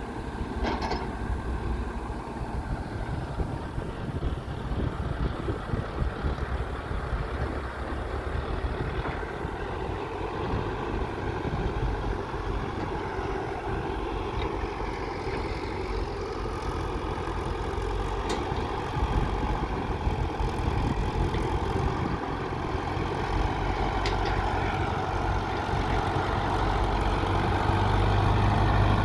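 Diesel engines of a working excavator and tractors running steadily, with a few sharp clicks. The sound grows louder in the last few seconds.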